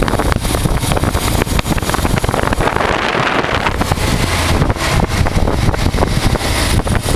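A 1988 Honda Transalp's V-twin engine running steadily under way, with heavy wind buffeting on the microphone. About three seconds in, a louder rushing hiss swells for about a second while the engine's low drone dips.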